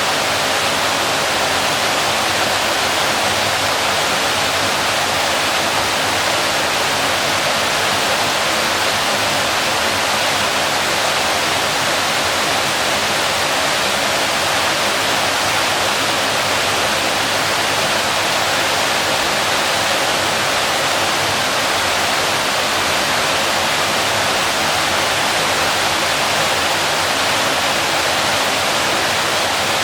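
Waterfall: a steady, unbroken rush of falling water with little deep rumble.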